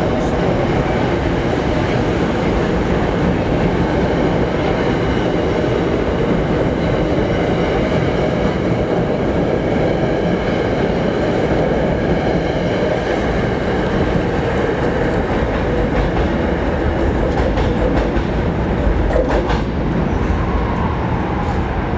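Metro-North train of Shoreliner passenger coaches departing and rolling past close by, a steady rumble of steel wheels on rail. A few sharp clicks come near the end as the last car goes by.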